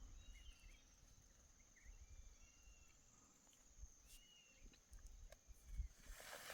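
Faint outdoor ambience: a steady high insect drone with a few short chirps of birds, then a rustle near the end.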